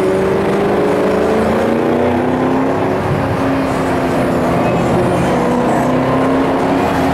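Shelby GT500KR's supercharged 5.4-litre V8 running under way, its note climbing over the first couple of seconds and then holding fairly steady.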